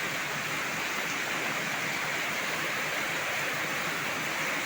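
Heavy tropical downpour falling steadily: a dense, even hiss of rain with no breaks.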